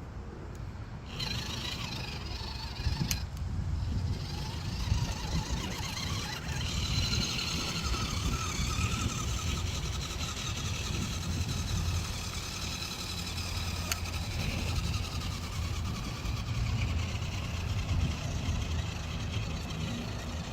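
Small RC 6x6 truck's motor and gears whining as it drives, the pitch rising and falling with the throttle over a steady low rumble.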